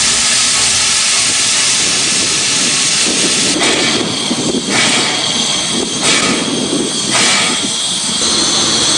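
Canadian National 6060, a 4-8-2 bullet-nose steam locomotive, hissing steam loudly and steadily. About three and a half seconds in, the hiss breaks into four separate steam bursts roughly a second apart.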